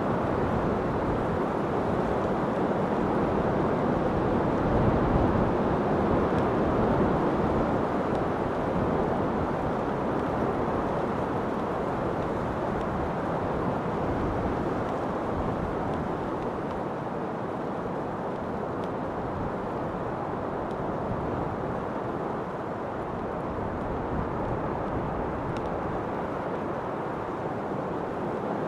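Steady wind rushing, a low, even noise that swells slightly a few seconds in and then eases off a little.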